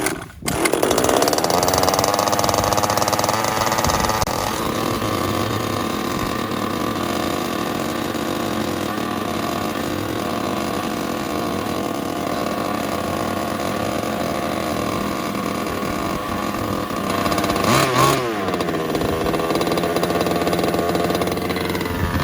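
Small 30 cc two-stroke gas engine of an RC rally car catching just after the start, still cold with the choke on. It runs at a high steady speed for about four seconds, then drops to a lower, steady idle. About 18 seconds in it gives one brief rev that rises and falls back.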